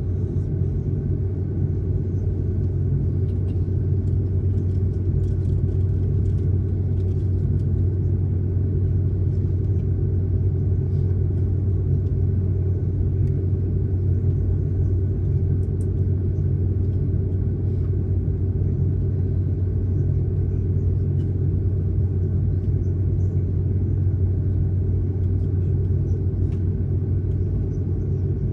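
Airliner cabin noise: a steady low rumble of jet engines and airflow heard from inside the passenger cabin, with a few faint ticks.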